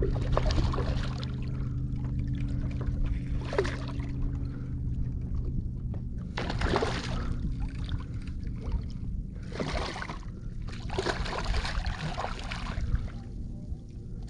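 Water splashing and sloshing in about five separate bursts around a kayak while a hooked redfish is fought at the surface, over a steady low hum.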